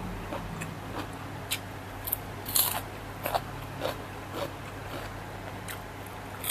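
A person eating, with crunchy bites and chewing. Short crisp crunches come at an uneven pace, about one or two a second, over a low steady hum.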